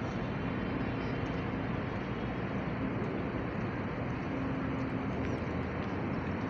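Steady background noise, strongest in the low end, with a faint low hum coming and going; no distinct bird calls stand out.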